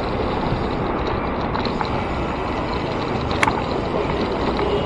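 Steady rushing road and wind noise from riding a bicycle in traffic, with one sharp click about three and a half seconds in.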